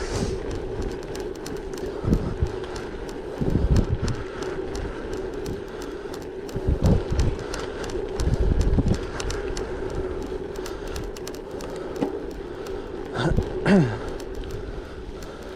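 Gravel bike riding over a gravel track: tyres rolling with a steady hum and a constant patter of small ticks from stones, with wind gusting on the microphone now and then. A brief falling squeal comes near the end.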